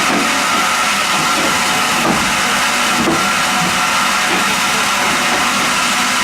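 Horizontal band sawmill running steadily: a dense, even machine noise with a steady whine.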